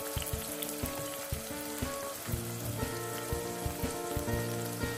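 Chopped vegetables sizzling as they fry in a pot, with frequent small pops. Background music with held notes comes up about halfway through.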